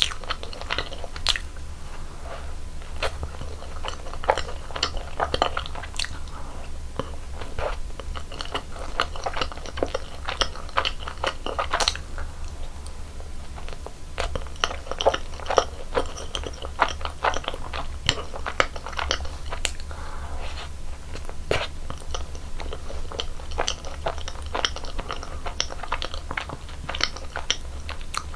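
Close-miked chewing and biting of cream-filled donuts, with frequent sharp clicks throughout over a steady low hum.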